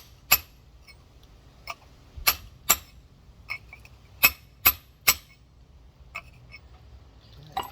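Rock hammer tapping on a large geode, about eight sharp ringing clinks at uneven intervals with a few lighter taps between: scoring a line around the geode to crack it open.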